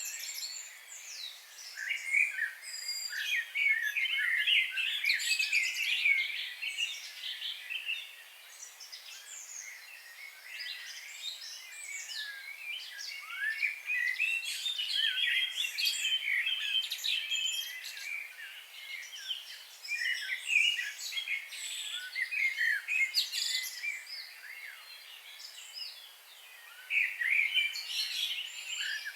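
A chorus of many birds chirping and singing at once: dense, overlapping high chirps and trills, busiest a few seconds in and again around the middle.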